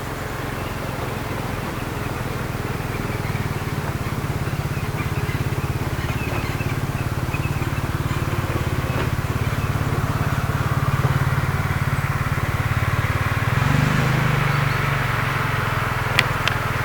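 Steam-hauled train approaching: a steady low rumble that grows gradually louder, with two sharp clicks near the end.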